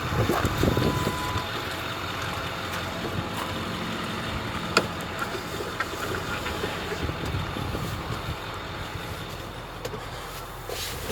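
Ford F-550 Super Duty truck engine idling steadily, with a few thumps near the start and a single sharp click about five seconds in.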